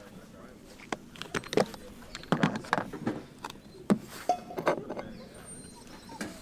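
A run of irregular clicks, knocks and light rattles, a dozen or so in a few seconds, with a sharper knock about four seconds in.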